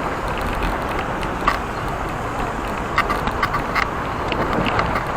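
Steady rushing noise of a bicycle ride, with scattered sharp clicks and rattles from the bike over the road surface.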